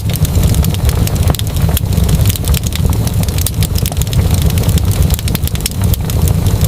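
Wood fire crackling, with many quick irregular pops and snaps over a steady low rumble.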